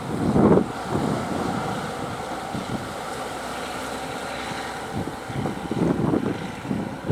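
Fishing boat's engine running steadily, with wind buffeting the microphone in gusts and sea noise behind.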